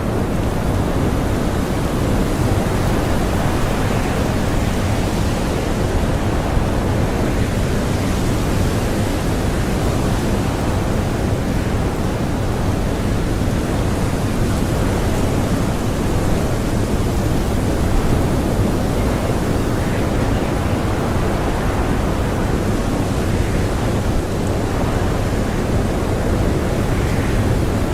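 Blizzard wind blowing hard and steadily, a dense rushing noise heaviest in the low end, without separate gusts standing out.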